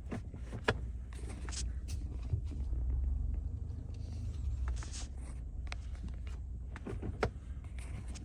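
Tow vehicle's engine running at low revs while it is backed slowly toward a trailer hitch, the low rumble swelling briefly midway, with a few sharp clicks.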